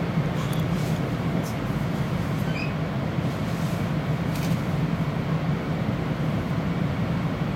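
Bombardier Talent electric multiple unit running at speed, heard inside the passenger cabin: a steady low rumble of wheels and running gear, with a few faint clicks.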